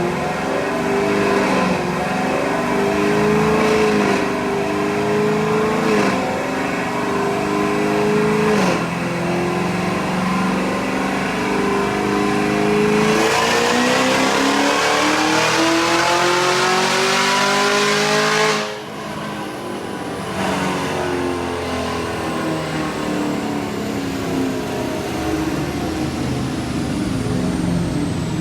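Supercharged V8 of a ZL1 Camaro pulling through gears, with pitch steps at each shift, then a long full-throttle run from about 13 s with the blower whining. About 19 s in the throttle snaps shut and the engine falls away as the car slows.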